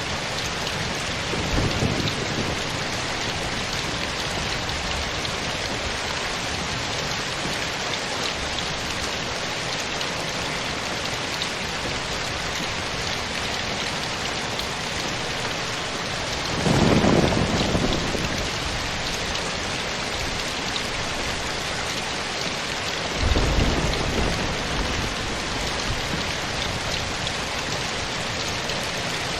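Steady rain falling, with three brief low rumbles of thunder: one about two seconds in, then two in the second half, the first of those two the loudest.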